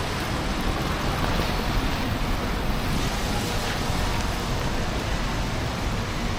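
Steady city street noise in a snowstorm: traffic and wind blending into an even, continuous hiss with no distinct events.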